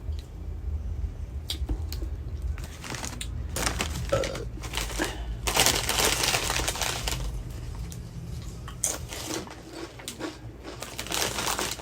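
Crinkling of a bag of cheddar Sun Chips and crunching of the chips being chewed, in irregular bursts, loudest about six seconds in.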